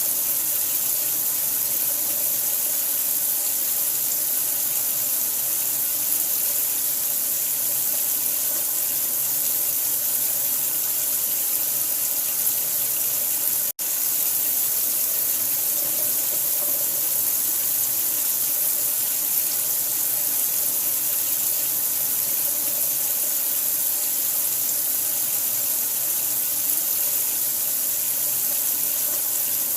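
Running water: a steady, even rush with a bright hiss, broken once by a split-second gap about fourteen seconds in.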